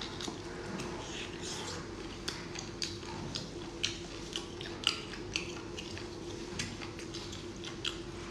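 Close-up mouth sounds of a person biting and chewing geoduck clam: irregular sharp clicks and smacks, roughly one or two a second, over a steady low hum.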